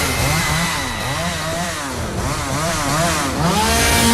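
Chainsaw engine revving hard, its pitch rising and falling about twice a second. Near the end it rises into a steadier high rev.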